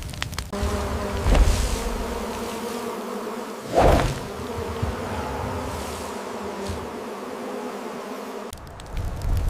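A swarm of honeybees buzzing in a steady drone that starts about half a second in and cuts off a second before the end, with two louder rushes, about 1.5 and 4 seconds in.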